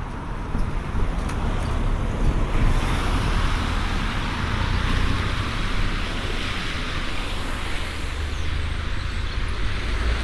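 Steady outdoor rushing noise over a deep low rumble: wind on the microphone mixed with distant road traffic. The rushing grows a little fuller about two and a half seconds in.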